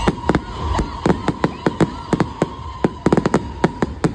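Fireworks going off: a rapid, irregular run of sharp bangs and cracks, about twenty in four seconds, some coming in quick clusters.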